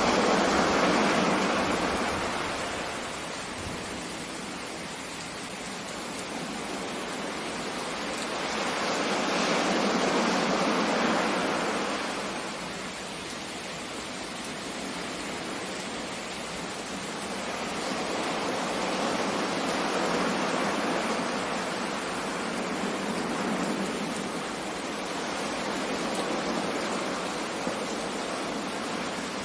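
Sea surf: a steady wash of water noise that swells and eases in long waves about every eight to ten seconds.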